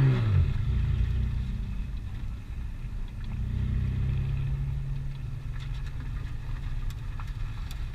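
Car engine running at a low, fairly steady note, its pitch dropping in the first half-second.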